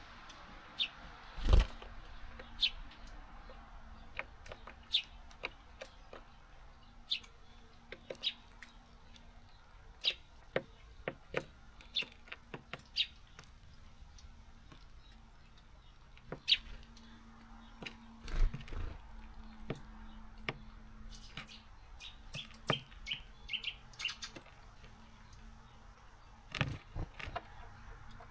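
Small garden birds at a seed feeder: scattered short high chirps, with a quick run of them about three quarters of the way through, among many sharp taps and clicks and three louder knocks as the birds hop on the feeder and peck at seeds.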